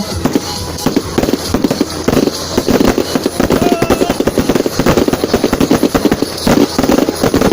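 Fireworks going off: a dense run of rapid crackling bangs, many a second.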